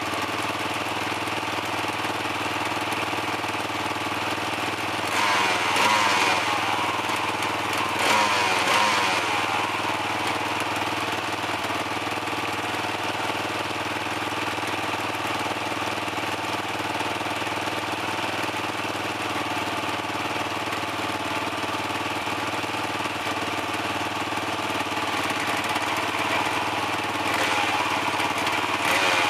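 Dirt bike engine idling steadily, revved briefly twice, about five and eight seconds in, and picking up again near the end as it warms up.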